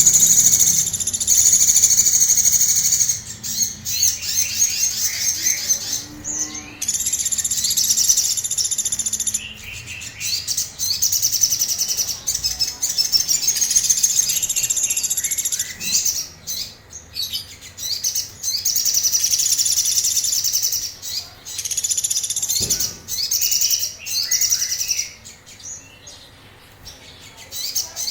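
A sogon songbird singing agitatedly ('emosi'): repeated phrases of rapid, high notes, each lasting a few seconds, with short pauses between them.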